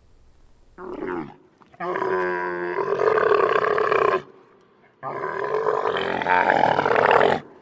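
Camel bellowing: one short call, then two long, rough calls of about two seconds each.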